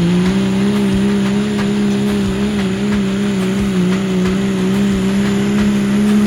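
Cummins inline-six diesel pickup engine held at high revs under full load, pulling the sled: a loud, steady drone whose pitch wavers only slightly.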